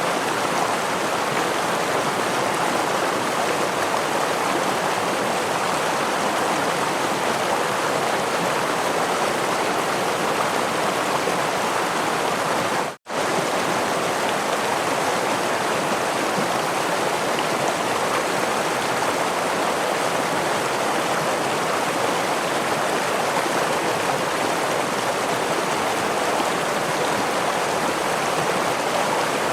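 Steady rushing of a forest stream and waterfall, an even wash of running water. A little before halfway the sound cuts out for a split second and comes straight back.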